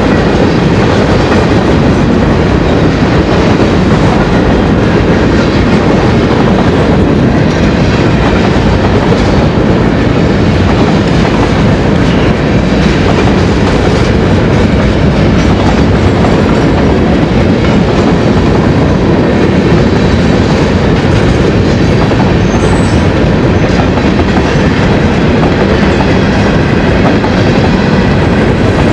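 Freight train cars rolling steadily past: empty open-frame flatcars, then covered hopper cars. The wheels on the rails make a loud, continuous noise.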